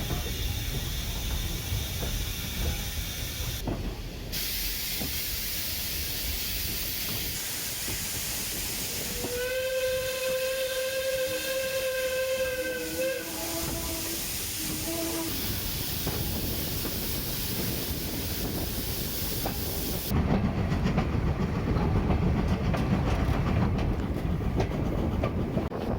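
A Robert Stephenson & Co 0-6-0 steam locomotive hauling its train uphill, with a steady rushing hiss of steam and running noise. About ten seconds in, its steam whistle gives one long blast of about four seconds, followed by a couple of short notes. Near the end the sound turns heavier and lower.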